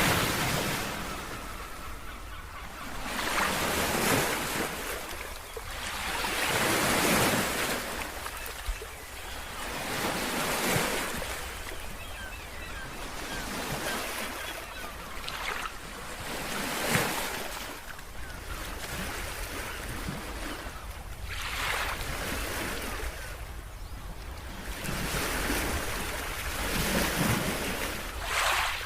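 Ocean waves breaking and washing on the shore in repeated surges every three to four seconds, each swell rising to a rush of surf and fading back.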